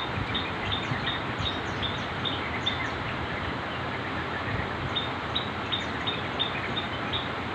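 Trucukan (yellow-vented bulbul) calling in a run of short, high, evenly spaced notes, about three a second, over steady background hiss. The notes run through the first three seconds, pause, then start again about five seconds in.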